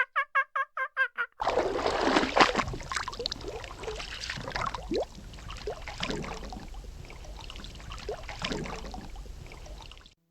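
A fowl's rapid run of repeated calls, about six a second, cut off abruptly. Then water splashing and trickling, with a few short rising chirps scattered through it.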